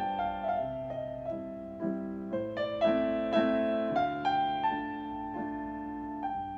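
Solo piano playing a gentle melody of struck notes, each left to ring and fade, several overlapping at once.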